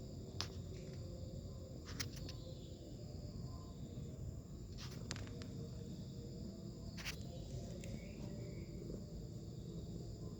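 Steady high insect chirring with a low background rumble, broken by about five short clicks.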